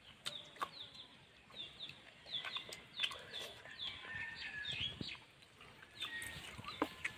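Birds chirping over and over in short, high, falling chirps, mixed with the lip-smacking and chewing clicks of people eating with their hands.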